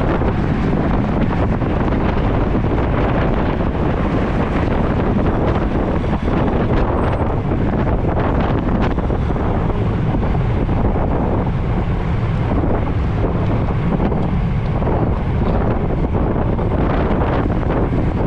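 Loud, steady wind noise on the microphone from the air rushing past a rider on a road bicycle.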